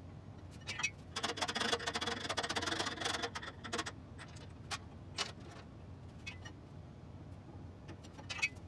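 Metal parts of a milling machine clicking and clattering during reassembly: a dense rattle of ticks with a faint metallic ring from about one to four seconds in, then a few single clicks.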